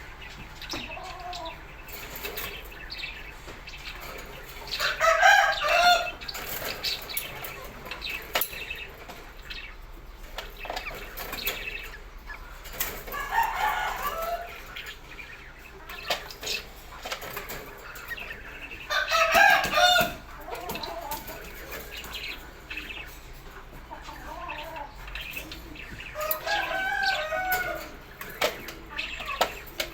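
Loud bird calls, four in all, each lasting one to two seconds and coming about every seven seconds, over a steady low background hum.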